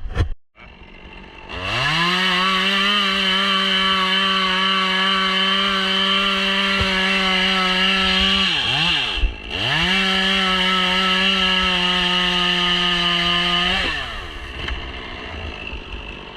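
Two-stroke chainsaw run up to full throttle and held at a high, steady pitch. About halfway through the throttle is let off briefly and opened again, and near the end it is released and the engine drops back.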